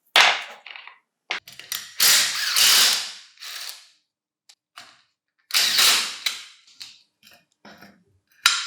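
Metal parts of an old angle grinder being handled and worked by hand: a handful of separate sharp clacks and rattling scrapes, each fading out within about a second.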